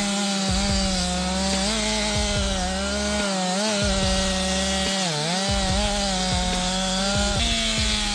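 Two-stroke chainsaw running at full throttle while cutting through wood. Its pitch stays high and steady and dips briefly twice, at about three and a half seconds and again at about five seconds, as the chain bites under load.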